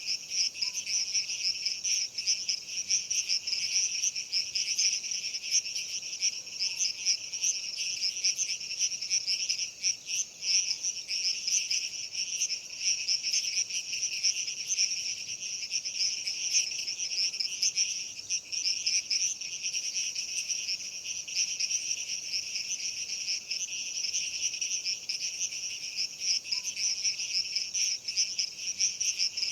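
A dense chorus of insects chirring, high-pitched and continuous, with a fast flutter and no pause.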